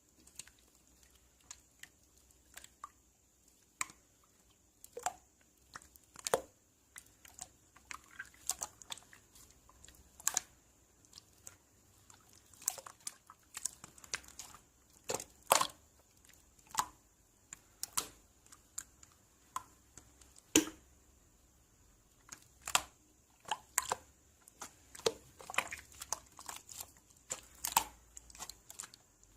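Irregular small clicks and crackles, roughly one or two a second, over a faint steady hiss.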